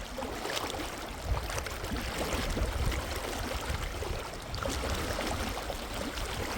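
Rushing river water: a steady, dense wash of noise with irregular splashes and a low rumble.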